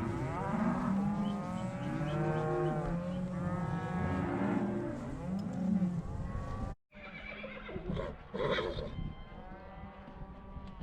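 A gathered herd of cattle bawling, many calls overlapping. About two-thirds of the way through the sound cuts out for a moment and comes back quieter, with fewer calls.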